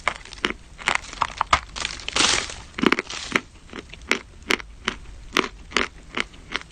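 Crunchy food being chewed, a sharp crunch about every half second.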